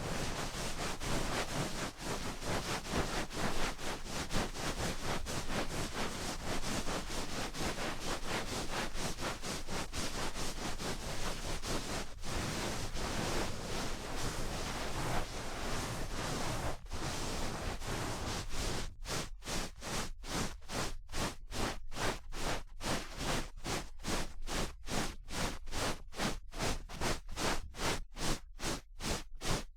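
Wooden ear pick scraping and rubbing right at the microphone in an ASMR ear-cleaning recording: a dense, continuous scratchy rustle that, about two thirds of the way in, breaks into separate strokes at about two a second.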